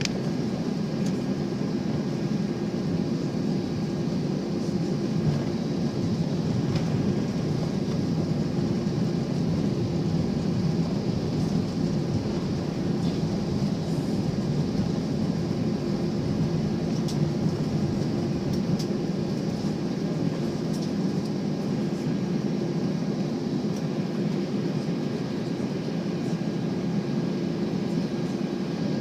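Airbus A320 engines running steadily, heard from inside the passenger cabin as an even, low rumbling hum with a few faint steady tones, and no rise in power.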